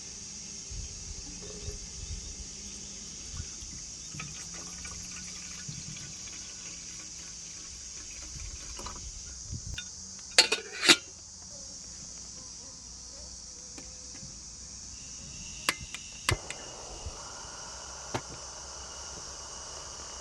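Steady high-pitched insect chirring, with a few sharp clinks and knocks of camp cooking gear being handled, the loudest a double clink about halfway through.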